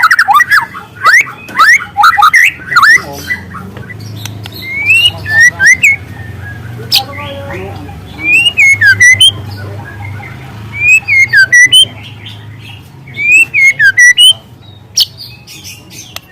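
Young white-rumped shama singing loudly. A quick run of rising whistled notes opens the song, followed by clear up-and-down whistled phrases that repeat every two to three seconds.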